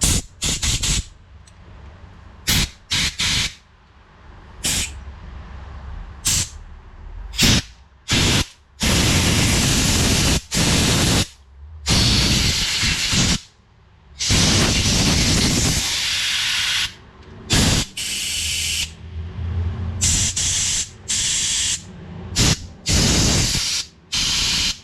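Compressed-air blow gun blowing out a lawnmower carburetor to clear grit from it: a string of short hissing blasts, then several longer blasts lasting one to three seconds each.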